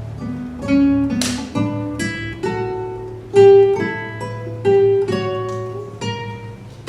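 Acoustic guitar ensemble playing a fugue: plucked notes in several overlapping voices, each ringing and dying away, with a few stronger accents.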